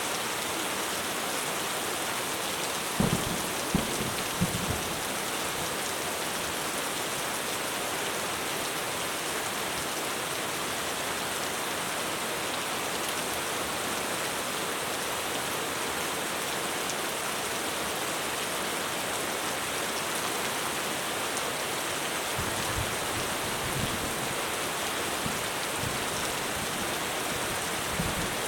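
Heavy rain falling steadily on a roof, a dense even hiss, with a few short low thumps about three to five seconds in.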